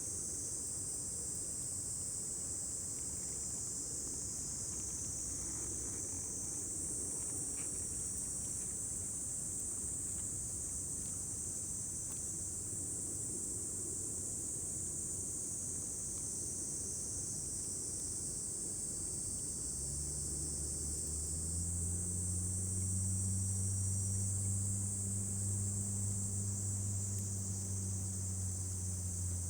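Insects chirring steadily in a high, continuous band. About two-thirds of the way in, a low steady motor drone fades in and holds.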